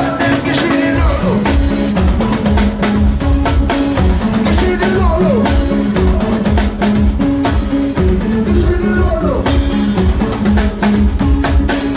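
A live band plays an instrumental groove: a drum kit keeping a steady beat over a repeating bass line.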